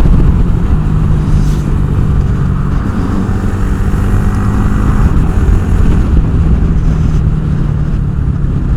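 Honda Grom's single-cylinder engine running at a steady cruising pitch while riding, under heavy wind rush on the microphone.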